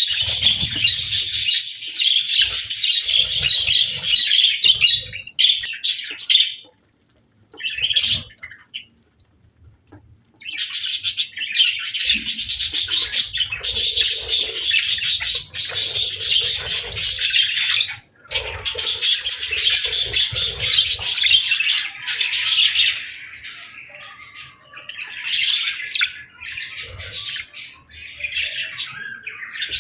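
Budgerigars warbling and chirping in a continuous chatter of fast, high chirps, broken by two brief pauses about a third of the way in and a short one past halfway, then quieter for a few seconds near the end.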